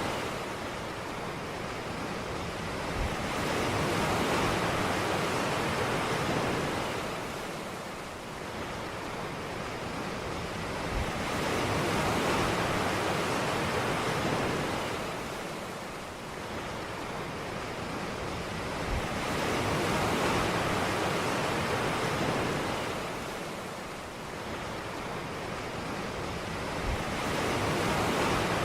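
Ocean surf breaking on a beach, a steady rushing wash that swells and recedes about every eight seconds.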